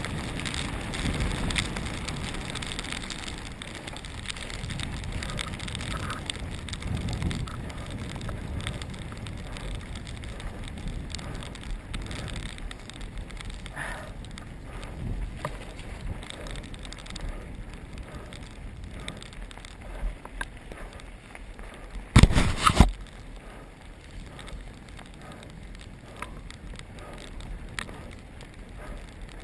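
Mountain bike riding over rough ground: steady tyre and gravel noise with rattling, and a short, loud clatter of knocks about 22 seconds in.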